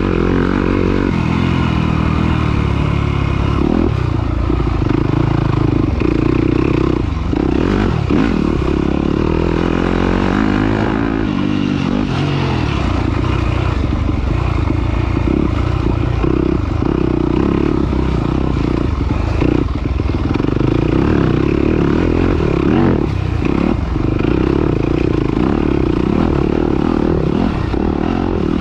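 Off-road racing dirt bike engine running hard, its pitch rising and falling over and over as the throttle is opened and closed.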